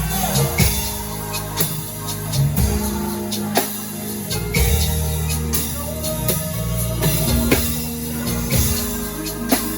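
Live worship band playing: drum kit hits over sustained bass and keyboard notes.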